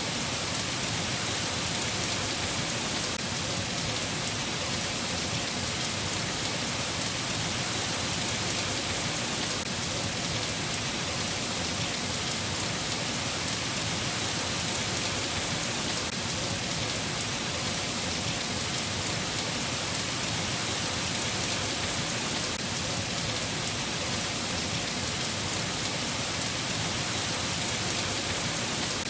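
Steady rain falling: an even hiss with a dense patter of drops, unchanging in level throughout.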